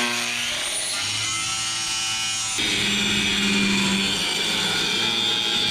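Handheld grinder grinding through a stuck steel plate on a grain bin: a rising whine as the disc spins up, then a loud, steady grinding with ringing metallic tones that changes in tone about two and a half seconds in.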